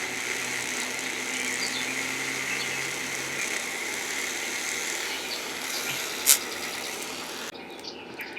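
Small power drill running steadily as it bores a small hole, stopping about a second before the end, with one sharp click shortly before it stops.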